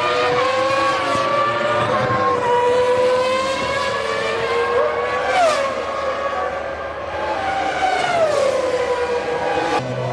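Formula One V10 engine running at high revs, its pitch gliding down sharply about five seconds in and again about eight seconds in as it shifts down or lifts off.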